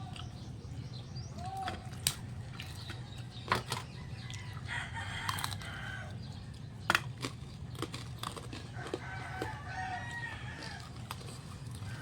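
A rooster crowing in the background, two long drawn-out crows about five and nine seconds in, over a steady low hum, with scattered sharp clicks from eating.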